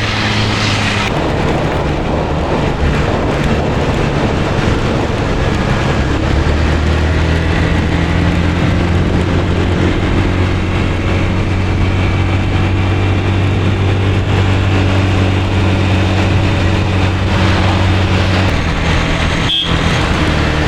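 Small motor scooter engine running steadily under a rush of wind noise, its pitch shifting a few times.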